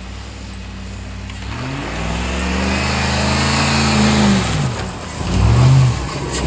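Straight-piped Chevrolet Silverado exhaust revving: the engine climbs steadily for a few seconds and drops off about four and a half seconds in, then gives a short, quick rev just before the end.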